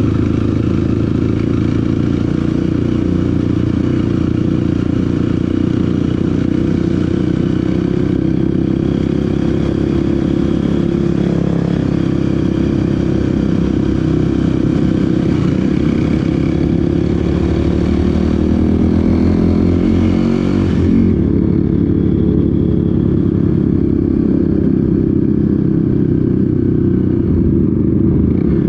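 Small off-road vehicle engine running steadily while riding, its pitch rising and falling with the throttle. The higher sounds fade about two thirds of the way through.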